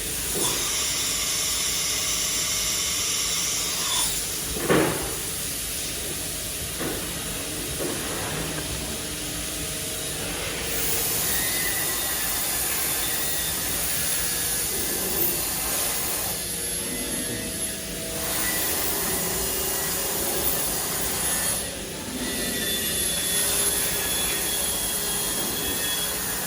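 CNC machining centre running while it machines a steel H-beam: a steady mechanical whirr and hiss that shifts in level every few seconds, with a sharp knock about five seconds in.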